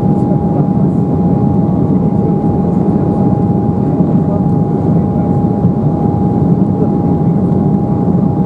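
Steady cabin noise inside an Embraer 190 jet: a dense, even rumble from its CF34-10E turbofan engines and air handling, with one constant high hum running through it.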